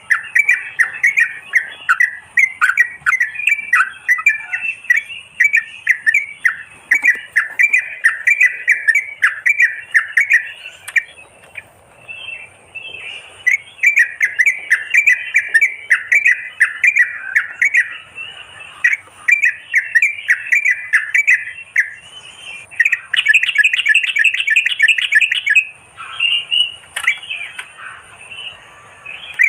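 Merbah kapur bulbuls calling in a continuous run of rapid, bubbly chattering notes, played as a bird-trapping lure call. There is a brief lull partway through and a faster, denser burst of notes near the end.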